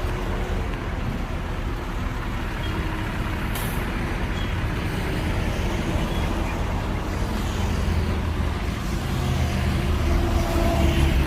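Heavy diesel engine of earthmoving machinery running steadily, with a short hiss of air about a third of the way through; the engine grows louder near the end.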